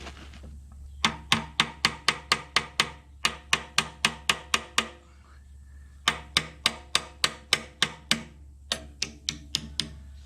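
Rapid hammer blows on metal, about four a second, in four runs of a few seconds each with short pauses between. Each blow rings briefly.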